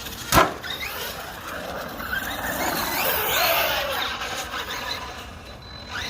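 1/7-scale CEN Reeper RC monster truck driving, its electric motor whining up and down in pitch as the throttle is worked. A single sharp knock comes about half a second in.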